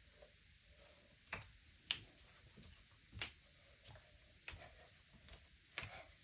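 About six light, irregular taps and knocks of hands and feet on the floor during a breakdance coffee grinder move, the sharpest about two seconds in.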